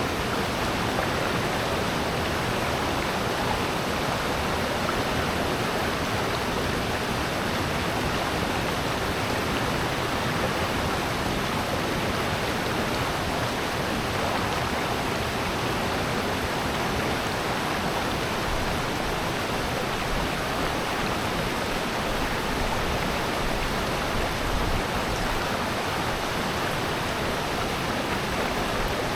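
Water rushing steadily in a mountain valley stream, a constant even roar with no breaks or single events.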